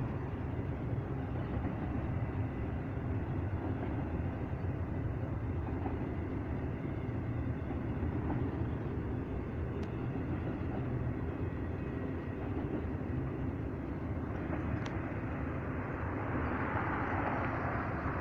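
A long freight train's cars rolling past at speed: a steady rumble of wheels on the rails, turning brighter and louder in the last few seconds.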